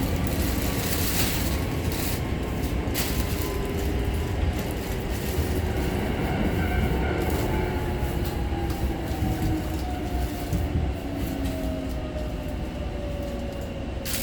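Onboard running sound of a Hankyu 6000 series resistor-controlled electric train: a steady low rumble with wheel clicks over the rails. From about six seconds in, a whine falls steadily in pitch as the train slows.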